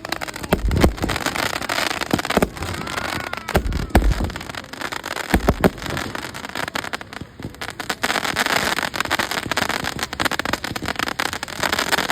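Fireworks display: several deep bangs of shells bursting over the first half, then a denser spell of crackling from about two-thirds of the way in.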